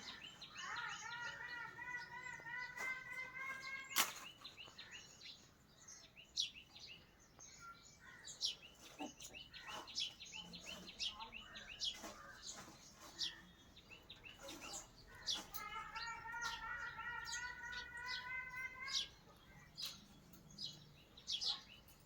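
Pet parrot chirping in many quick, short tweets, with two long drawn-out whistle-like notes of about three seconds each: one near the start and one about two-thirds of the way through. There is a single sharp click about four seconds in.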